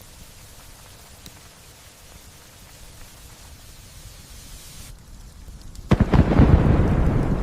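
Steady light rain hiss, then about six seconds in a sudden thunderclap cracks and rolls into a loud, low rumble that slowly fades.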